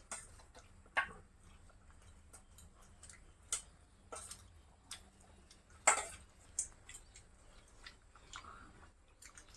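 Sporadic light clicks and taps of people eating a meal, about half a dozen, the loudest about six seconds in.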